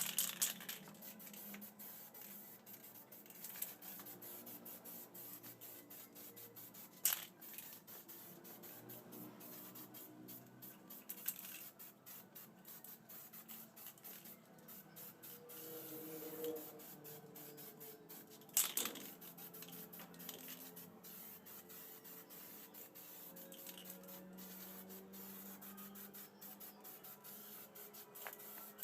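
Aerosol can of heat-resistant spray paint hissing on and off, with a couple of sharp clicks, over faint background music.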